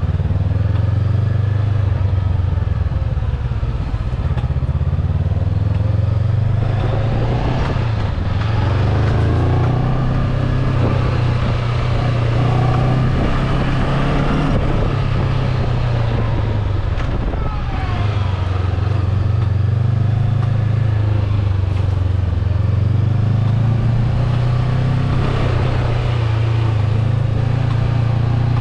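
Motorcycle engine running while the bike is ridden, its pitch rising and falling slowly as the throttle changes.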